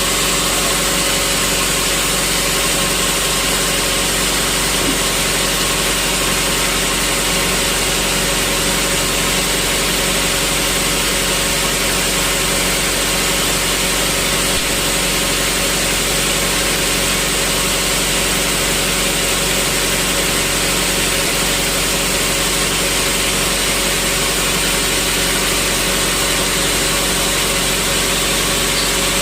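Sawmill machinery running steadily, a constant motor drone with an even hiss that does not change.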